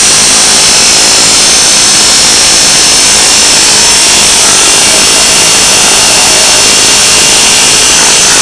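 Pneumatic air tool running flat out without a break, very loud, as it works on a seized wheel hub on a Dodge Ram 1500. It cuts in just before and stops about a second after.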